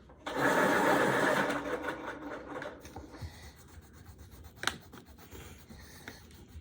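Coloured pencil rubbing and scratching on paper: a loud stretch of fast colouring-in for about two and a half seconds, then lighter scratching, with one sharp tap about four and a half seconds in.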